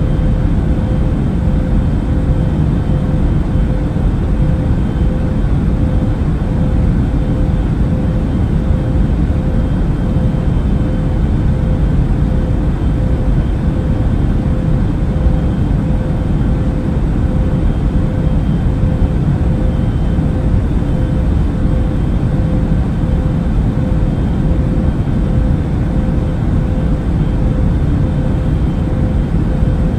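Airplane cabin noise in flight: a steady low rumble of engines and rushing air, with a thin steady hum above it.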